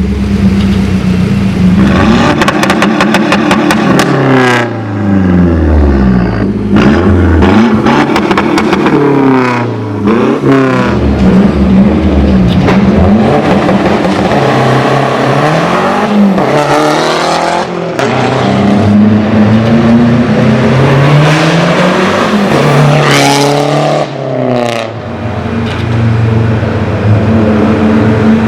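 Straight-piped Mazdaspeed 6's turbocharged 2.3-litre four-cylinder accelerating through the gears, its pitch rising and then dropping at each shift, over and over. A rapid run of clicks comes about two seconds in.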